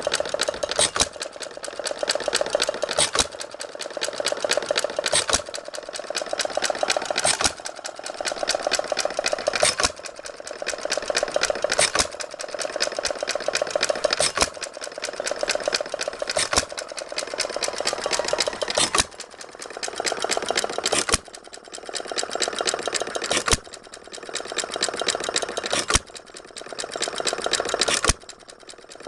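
Briggs & Stratton FH single-cylinder engine, converted to hit-and-miss, running: a sharp fire stroke about every two seconds, with a fast, even clatter of the engine turning over between firings.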